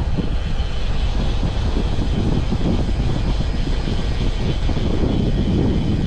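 Wind buffeting the microphone of a moving bicycle, a steady low rumble, with a faint higher hum under it that fades near the end.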